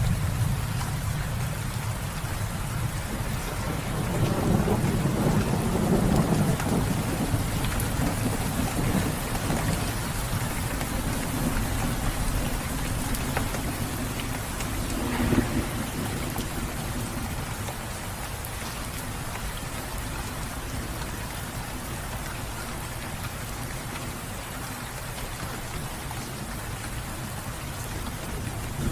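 Steady rain falling, with low rolls of thunder that swell and fade, the strongest a few seconds in and a shorter one about halfway through.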